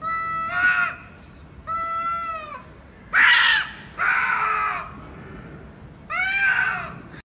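A cat yowling: five long, drawn-out calls with short gaps between them. The call about three seconds in is the loudest and roughest.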